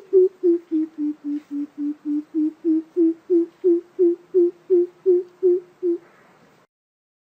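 Greater coucal giving its deep hooting call: a long, even series of low hoots, about three a second, dipping slightly in pitch and rising again, that stops about six seconds in.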